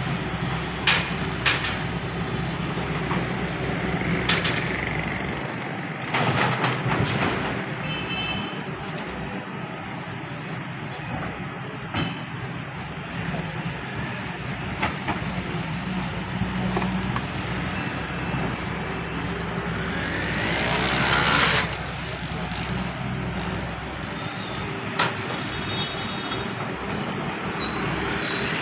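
Heavy construction machinery engines running steadily, with scattered sharp knocks and clanks. About twenty seconds in, the noise swells in a rising surge, then drops back.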